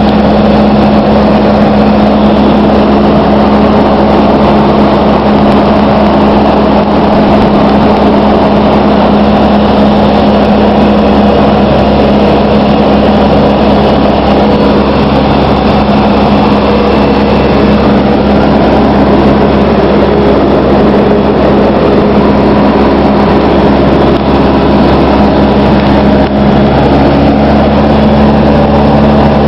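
Cessna 152's Lycoming O-235 four-cylinder engine and propeller running at a constant setting: a loud, steady drone with no change in pitch.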